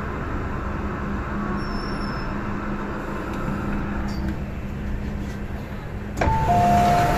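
MTR M-train running steadily with a low hum as it slows into a station. About six seconds in, the descending two-note door chime sounds as the doors open, and it is louder than the running noise.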